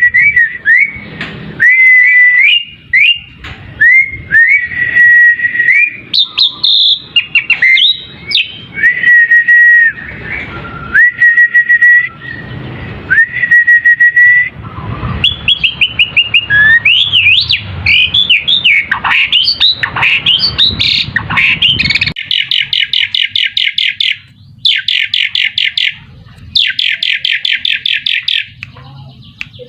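Asian pied starling (jalak suren) singing: a long run of repeated slurred whistles, then quicker varied whistles and chatter, and from about two-thirds in, fast rattling trills in short bouts.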